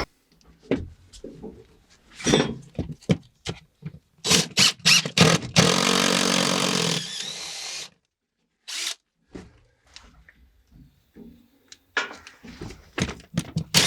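Power drill running for about a second and a half, boring up through the roof sheathing, between scattered clicks and knocks of tool handling.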